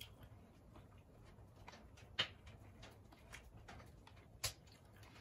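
Quiet mouth sounds of someone eating a grilled beef short rib by hand: soft chewing and small wet clicks, with two louder smacks about two seconds in and near the end.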